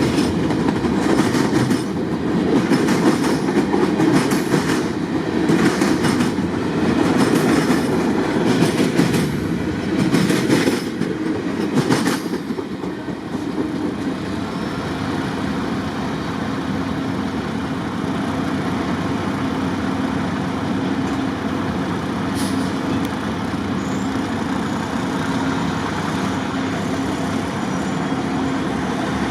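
Freight cars rolling past, their wheels clicking over rail joints roughly once a second, until about twelve seconds in. After that a steadier, slightly quieter rumble carries on, with a faint low hum.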